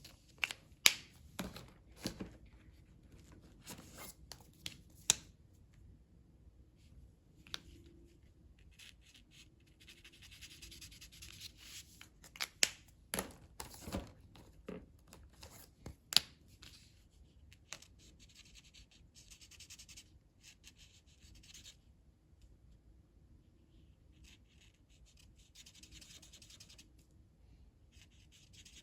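A colouring tool shading on paper in stretches of scratchy strokes, with sharp clicks and taps scattered through, the loudest in the first few seconds and again around twelve to sixteen seconds in.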